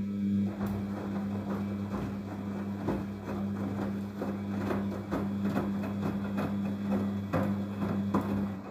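Daewoo DWD-FT1013 front-loading washing machine turning its drum in a gentle hand-wash cycle: a steady motor hum with irregular light knocks and clatter from the wet laundry tumbling. The burst starts and stops abruptly and lasts about nine seconds, one of the short drum turns between pauses in this programme.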